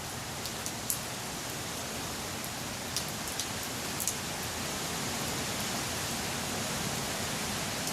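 Steady hiss of rain from a hurricane rain band, with a few sharp ticks of drops striking something close by.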